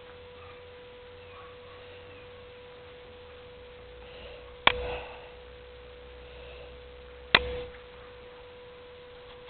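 A faint steady hum-like tone, broken twice by sharp knocks about three seconds apart, the first a little before halfway.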